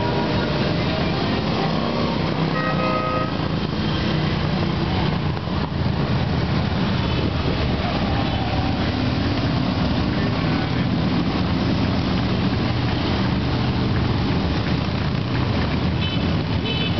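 Many motorcycle engines running as a dense stream of bikes rides past, a steady heavy rumble. A horn toots briefly about two to three seconds in, and short high beeps come near the end.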